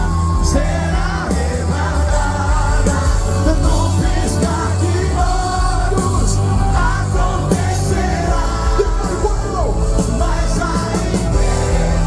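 Live band music with singing, loud and continuous over a heavy bass.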